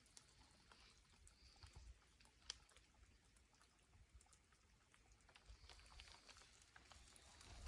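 Near silence: a faint outdoor background with scattered soft ticks and one sharper click about two and a half seconds in.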